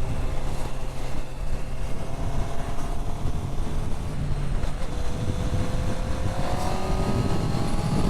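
Honda CB650R's inline-four engine running through an IXIL Hyperlow XL exhaust while riding, heard from the rider's position. About five seconds in the pitch drops, as at an upshift, then climbs slowly as the bike pulls.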